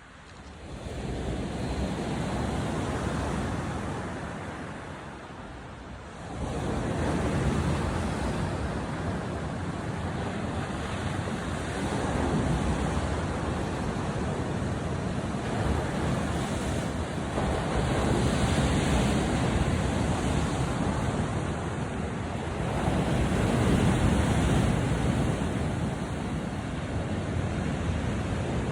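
Sea surf: waves breaking and washing up the shore, the noise swelling and easing every few seconds.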